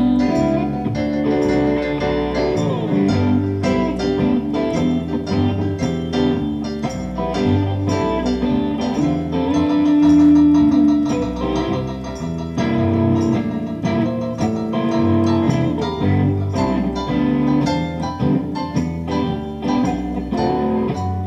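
Live band playing an instrumental break in a country-blues song, guitar to the fore over a steady beat, with a long held note about halfway through.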